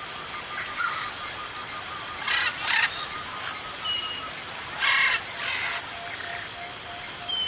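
Parrots giving two harsh squawks, about two and a half and five seconds in, over a background of steady, evenly repeating high chirps.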